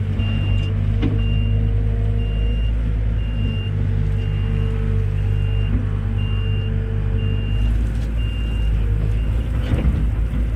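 Heavy diesel machinery engine running steadily, with a high-pitched warning alarm beeping about once a second that stops near the end. A short knock is heard near the end.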